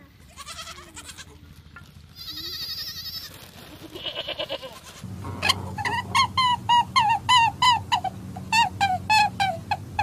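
Goats bleating, with a long wavering bleat about two seconds in. From about five seconds in, a rapid series of short, high-pitched yips follows, about three a second, each falling in pitch.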